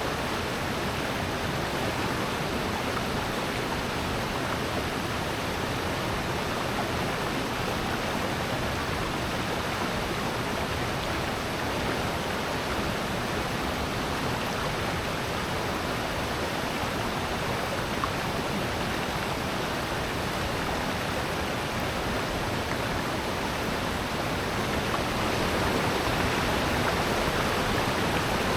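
Rushing water in a rocky valley gorge: a steady, even roar of a stream and waterfall. It grows a little louder near the end.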